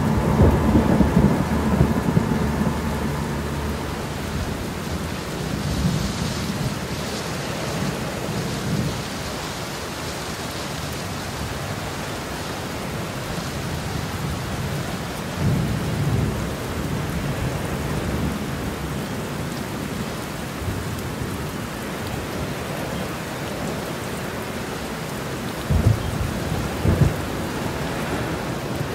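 Steady rain with rolls of thunder: a long rumble at the start, another about halfway through, and two sharper claps close together near the end.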